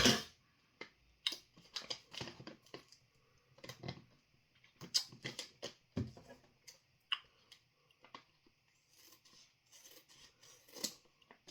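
A snack wrapper being handled and opened: irregular crackling and sharp clicks, with a thump right at the start.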